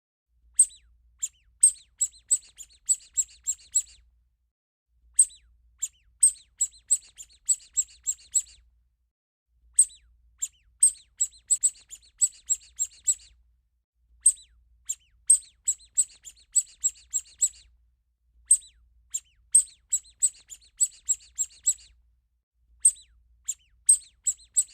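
Small bird chirping: quick, very high-pitched chirps in bouts of about three to four seconds, broken by short pauses, with the same pattern repeating about six times.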